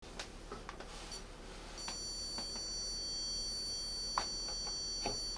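Zircon multi-scanner (stud finder) beeping: a brief beep, then a steady high beep held for about three and a half seconds from about two seconds in. Light clicks and knocks come and go throughout.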